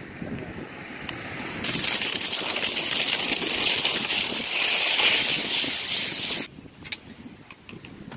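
Skis sliding and scraping over snow: a loud, gritty hiss that starts abruptly about a second and a half in, lasts about five seconds, and cuts off suddenly.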